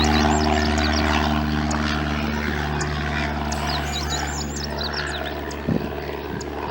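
Cessna 172P's four-cylinder piston engine and propeller, a steady drone that fades gradually as the plane draws away after takeoff. Short high chirps sound over it in the second half.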